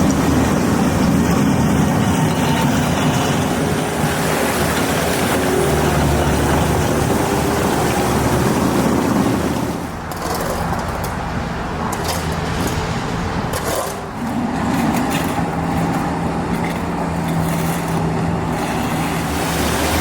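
A motor running steadily under a broad rushing noise, with a low hum; the sound shifts abruptly twice, about halfway through and a few seconds later.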